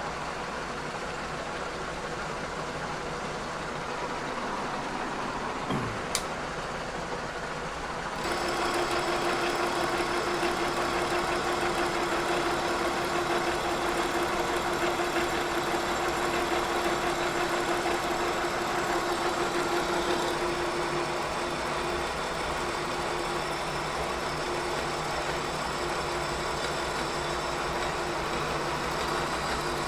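Kearney & Trecker 2HL milling machine running with its universal head; about eight seconds in the cutter bites into the cast iron straight edge and the sound gets louder, with a steady tone through most of the cut that fades somewhat near the end. The tone is chatter from a setup short on rigidity, which the machinist blames on the clamping.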